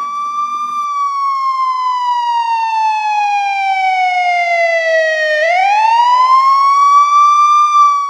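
A siren-like wailing tone that glides slowly down in pitch for about five seconds, then sweeps quickly back up and holds high near the end.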